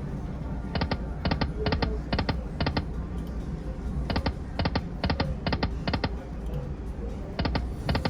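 Lightning Link slot machine reels stopping one after another, each reel landing with a sharp click in a run of about five, over the machine's background music. Two full runs of clicks, with a third starting near the end.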